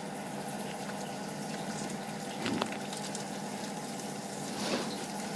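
Water running steadily through plumbing, turned on to show where a leak comes through, with a steady low hum underneath and a couple of faint knocks.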